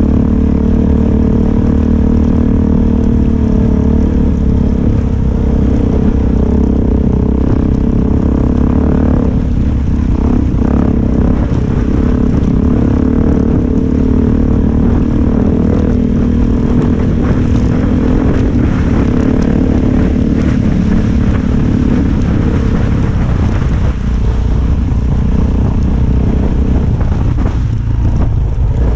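Suzuki DR-Z400's single-cylinder four-stroke engine running at a steady road speed, its note shifting about nine seconds in and dropping near the end, with frequent knocks from the bike riding over loose rock.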